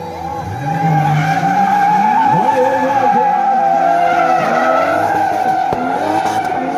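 Drift cars sliding: a long, steady tyre squeal runs under engines that rev up and fall back again and again.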